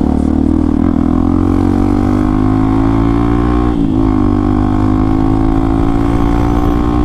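Hero XPulse 200 4V's single-cylinder engine pulling through an Akrapovic exhaust with the dB killer removed. The exhaust note climbs steadily, dips briefly with a gear change about four seconds in, then climbs again.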